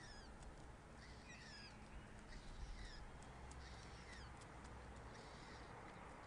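Faint bird chirps: short falling notes repeating about every second, over a steady low rumble.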